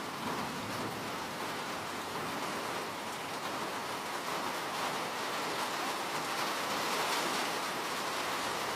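Steady rain falling: an even hiss that swells slightly near the end.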